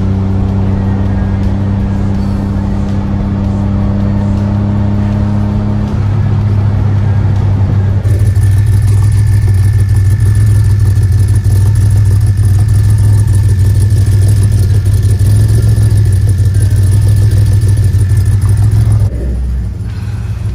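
DeLorean DMC-12's cammed 2.85-litre PRV V6 running steadily: first a drone heard inside the cabin while cruising, then, about eight seconds in, louder at the tailpipes behind the car, until it drops off shortly before the end.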